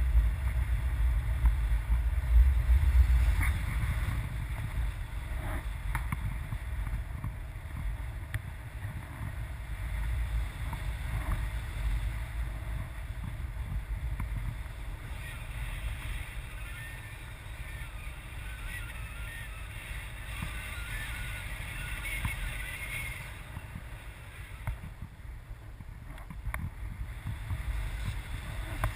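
Wind buffeting the microphone in uneven gusts, strongest in the first few seconds.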